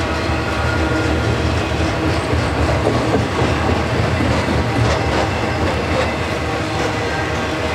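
Freight cars of a passing intermodal train, loaded with highway trailers, rolling by with a steady rumble of wheels on rail and a run of clicks and clatter around the middle.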